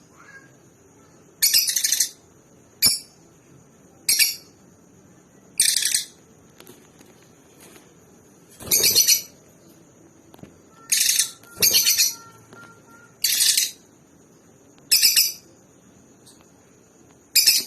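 Lovebirds giving sharp, high-pitched chirps in short bursts, about ten of them at irregular intervals, over a faint steady high whine.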